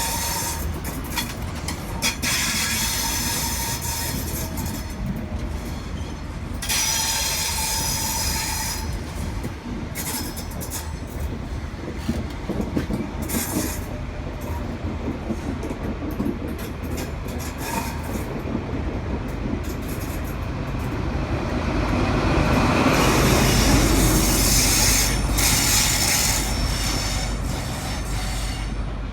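High Speed Train (InterCity 125) with Class 43 diesel power cars moving through a station, its wheels squealing on and off against the rails. A deep diesel rumble swells louder about 22 seconds in as a power car comes close, then eases.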